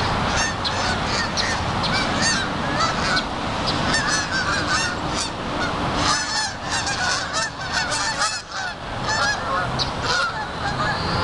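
Many short honking calls from a flock of geese, coming irregularly and overlapping, over the steady low rumble of a running engine.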